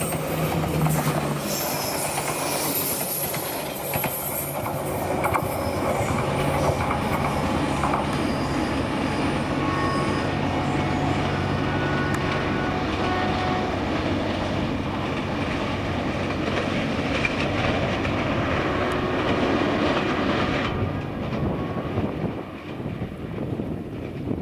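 Train running on the rails: a steady rumble of wheels with a low engine drone, and high-pitched wheel squeal in the first few seconds. The high hiss drops away near the end.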